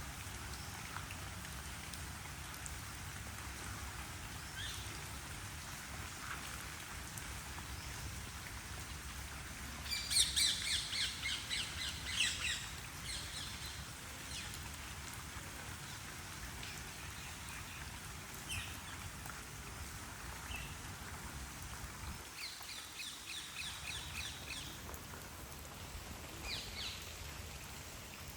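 Steady rain falling, with a loud burst of rapid, repeated bird calls about ten seconds in, and shorter bursts of the same calls near the end.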